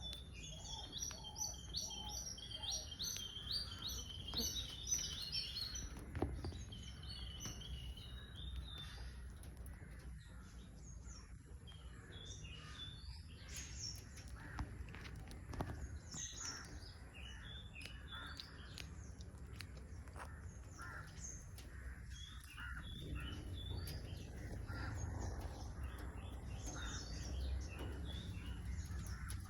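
Birds chirping and twittering: many short, high calls, thickest in the first few seconds and scattered through the rest, over a steady low outdoor rumble.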